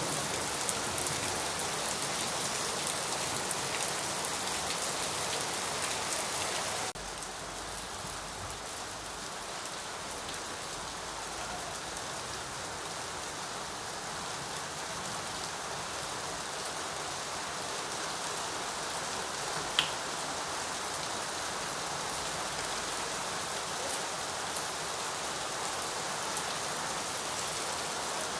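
Steady rain falling in a dense, even patter. About seven seconds in it drops abruptly to a slightly quieter level, and a single sharp tick sounds about twenty seconds in.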